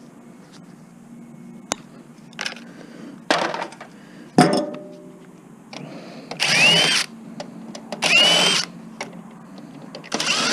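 A few clicks and knocks of handling a plastic electronics case, one with a short metallic ring, then a cordless drill-driver running in three short bursts, its motor whining up each time, backing screws out of the case.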